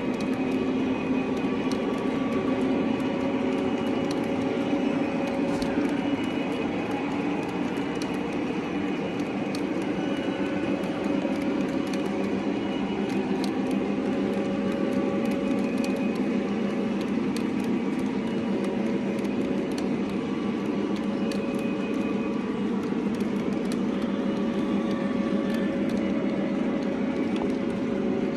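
A train running steadily along the track: a continuous drone with a few steady tones and faint scattered clicks.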